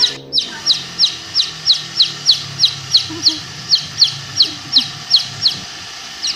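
A bird chirping over and over, a short sharply falling high note about three times a second, with a brief pause near the end.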